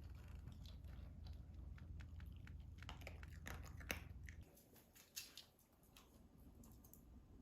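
Close chewing and crunching: irregular crisp crunches and clicks, busiest around the middle, over a low hum that stops a little past halfway.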